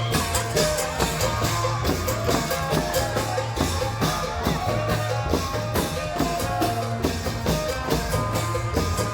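Isan klong yao long-drum band playing: drums struck in a steady, driving rhythm under a repeating bass line and an amplified, gliding melody.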